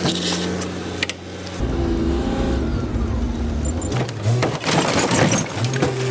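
Rear-loader garbage truck running its hydraulic compactor: the engine revs up into a heavy low rumble about a second and a half in. Rubbish in the hopper cracks and snaps as it is crushed near the end.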